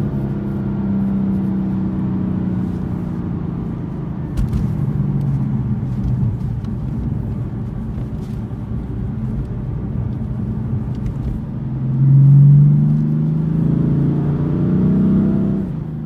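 2018 BMW M4's twin-turbo inline-six heard from inside the cabin while driving, a steady low engine drone. Near the end the engine note twice swells louder and rises in pitch as the car accelerates.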